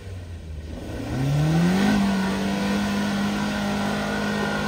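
Suzuki Jimny's 1.5-litre four-cylinder petrol engine revs up about a second in and is held at high revs as the tyres churn through deep mud.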